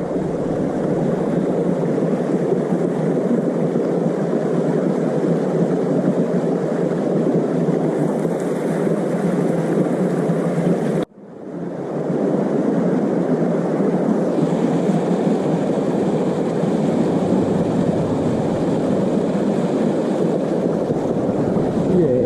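Steady rush of shallow river water flowing, dull and low-pitched; it cuts out sharply for a moment about halfway through, then comes back.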